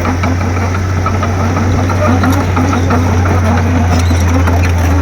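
Komatsu D31P crawler bulldozer's diesel engine running steadily with an even, deep drone.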